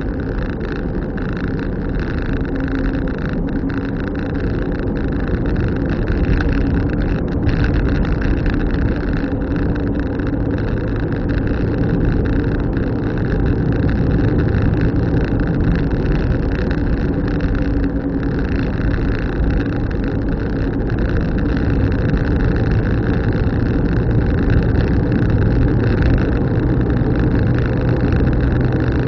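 Car driving: steady engine hum under continuous road noise, with a lower engine note coming up over the last third.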